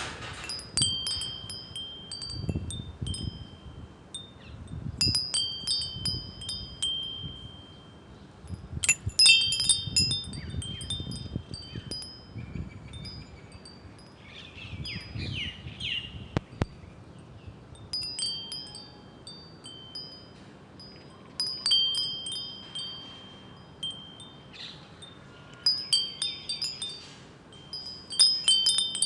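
Wind chimes tinkling in irregular clusters of high ringing notes every few seconds, with a low rumble swelling beneath some of the clusters.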